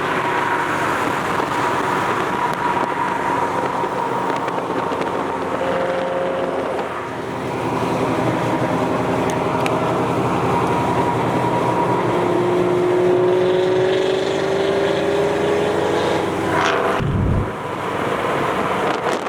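Car engine running with road noise, its pitch climbing slowly in the latter half, and a brief sharp sweep and dip about seventeen seconds in.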